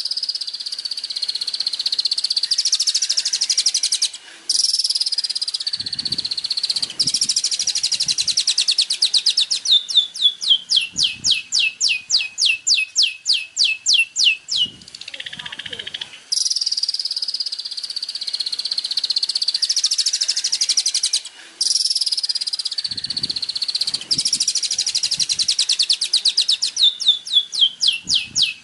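A songbird singing a high, unbroken song: warbled phrases alternate with long runs of sharp, rapidly repeated notes, about eight to ten a second, that slide down in pitch. The same sequence comes round again about halfway through.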